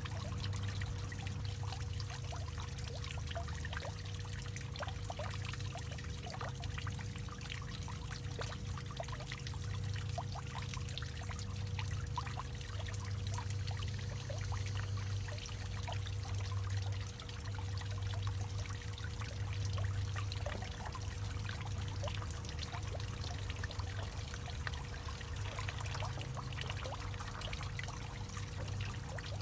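Water pouring and trickling in a hollowed-out tree, with many small splashes over a steady low rumble.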